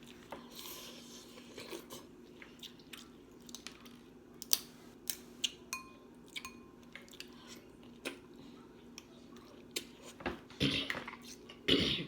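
Close-miked eating of snow crab: wet chewing and mouth smacks with many short, sharp clicks, getting louder and busier in the last couple of seconds.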